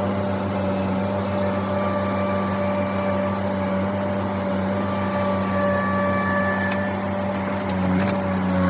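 Engine of farm machinery running at a steady speed with an even low drone, a few light clicks near the end.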